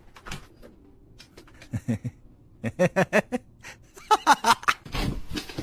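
A pet dog vocalizing back in short, whiny grumbles and yowls, in three bursts with pitch sliding up and down, followed by a brief rustling scuffle near the end.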